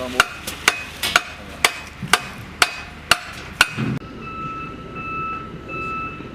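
Sharp, evenly spaced hammer-like strikes, about two a second. About four seconds in, they give way to a vehicle's reversing alarm beeping steadily.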